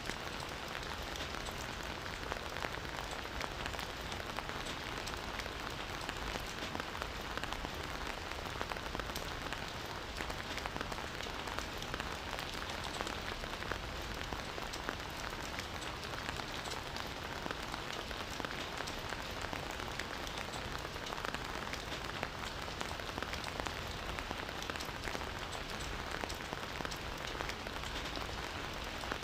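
Steady rain falling, a dense even patter of many drops hitting surfaces.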